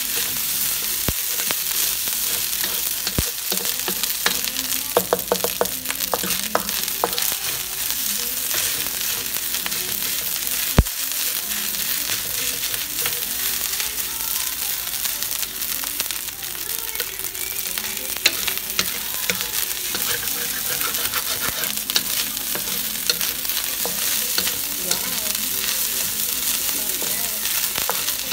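Fried rice sizzling in a hot wok while a wooden spatula stirs and scrapes it: a steady hiss with frequent small scraping ticks, and one sharp knock about eleven seconds in.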